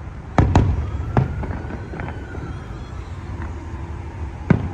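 Fireworks display going off: two sharp bangs in quick succession just under half a second in, another about a second in, and a fourth near the end, over a steady low rumble.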